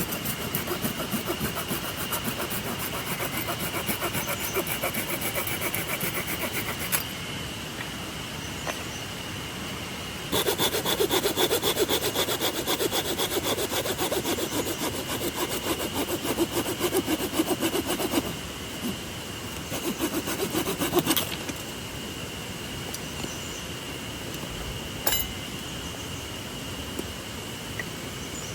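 A hand saw cutting through wood with quick back-and-forth strokes, in three bouts with pauses between, the middle one the longest and loudest. A single sharp click comes near the end.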